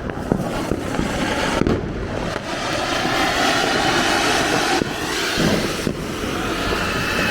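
Anar (flower-pot fountain firework) spraying sparks with a steady, dense hiss that grows stronger a couple of seconds in, with a few sharp cracks from other firecrackers.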